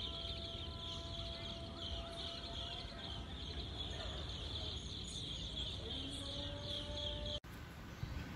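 Budgerigars chirping in a dense, continuous high-pitched chatter that cuts off suddenly near the end.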